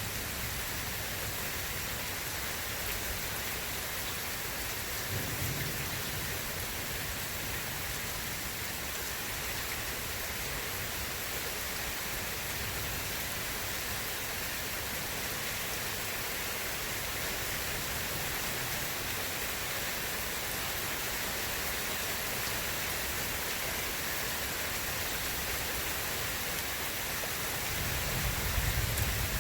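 Steady heavy rain with a constant hiss. Low rumbles of distant thunder come about five seconds in and again, louder, near the end.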